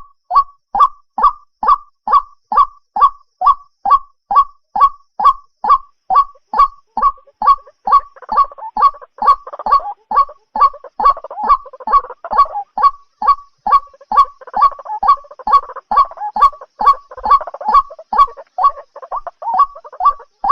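White-breasted waterhen calling, a monotonous honking note repeated evenly about two and a half times a second. A second, rougher layer of calling joins underneath about a third of the way in.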